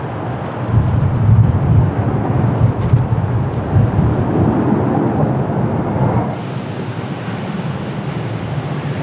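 Strong wind gusting and buffeting the microphone over the rumble of airliner jet engines. About six seconds in, the sound changes abruptly to a steadier, more even rush.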